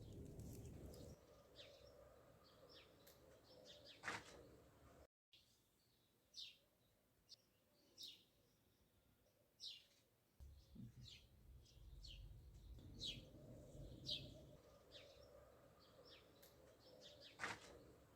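Small birds chirping faintly: short high chirps every second or so, with a faint low rumble underneath at times.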